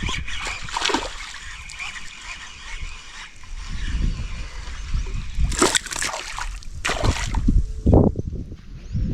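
Water splashing and sloshing in a small creek, with several sharp splashes between about five and a half and eight seconds in.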